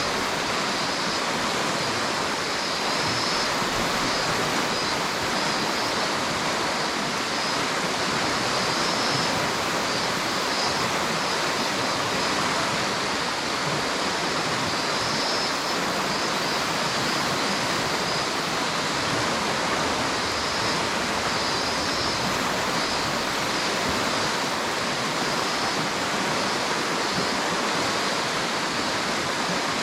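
River water rushing over rocks, a steady, unbroken noise.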